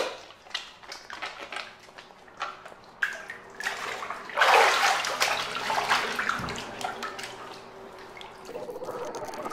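Water splashing and dripping in a small room, with scattered clicks and short bursts of splashing, the loudest about halfway through.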